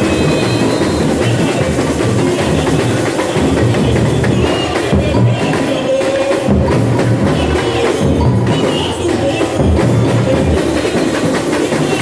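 Samba school drum section (bateria) playing a dense, continuous carnival samba rhythm on drums and percussion.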